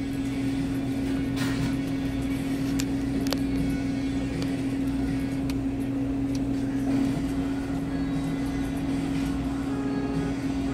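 Idling car engine heard as a steady low drone and hum, unchanging throughout. A few faint sharp clicks or knocks come between about one and a half and three and a half seconds in.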